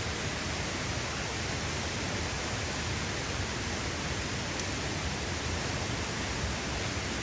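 Steady rushing noise of falling water, heavy rain together with a waterfall, with a faint tick about four and a half seconds in.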